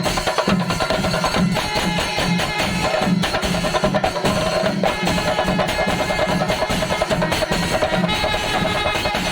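Kerala temple-festival percussion ensemble: drums struck in a dense, fast roll over a steady low beat about twice a second, with ringing metallic tones, typical of cymbals, above.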